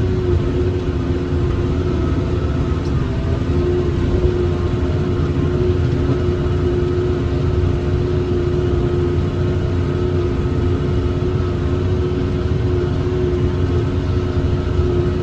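John Deere 7410 diesel tractor running steadily under load while pulling a John Deere 468 round baler, a constant low rumble with a steady whine held above it.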